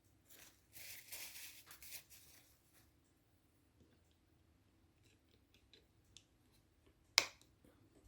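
Parts of a gear lever tower being handled on the bench while its return spring is fitted: a couple of seconds of faint scraping and rubbing, a few light ticks, and one sharp click about seven seconds in.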